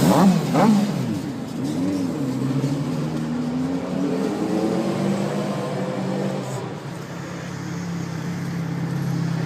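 A motor vehicle engine running steadily at an even pitch, with a few short rising and falling sweeps in the first two seconds.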